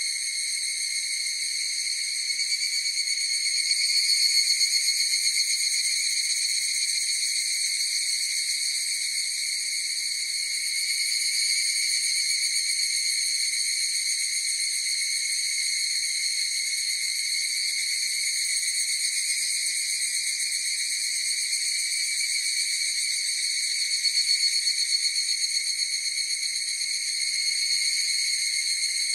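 Chorus of higurashi, the evening cicada Tanna japonensis, calling: a steady, shrill ringing drone that swells louder about four seconds in and again near the end.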